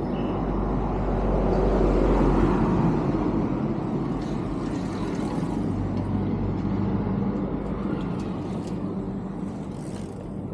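A motor vehicle passing on the street, swelling to its loudest about two seconds in and slowly fading, with a low steady engine hum after it.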